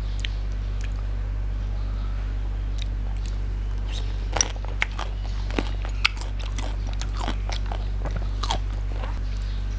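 Close-up eating sounds of a person chewing rice and crunching raw vegetables, with a few sharp, crisp crunches in the middle and more scattered ones after, over a steady low hum.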